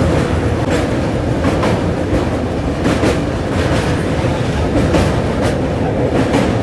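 Express train running over a steel truss bridge: a loud, steady rumble of wheels on rail with sharp clacks, irregular, about two a second.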